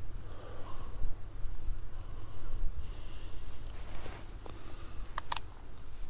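Wind buffeting the microphone in a steady low rumble, with a person's close breathing and sniffs, and a few sharp clicks a little over five seconds in.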